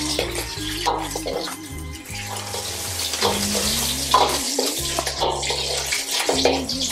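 Shrimp sizzling in hot oil in a wok as they are stir-fried, with a ladle scraping and knocking against the pan a few times. A background music track plays underneath.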